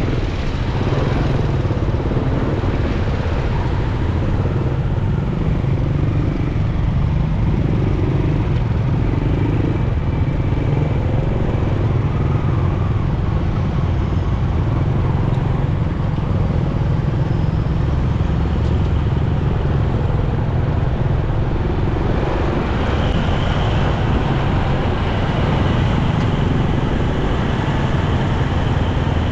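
Motorcycle riding through city traffic: a steady engine rumble with road and traffic noise.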